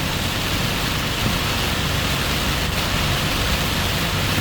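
Heavy rain pouring steadily: a dense, even hiss, with a low steady hum underneath.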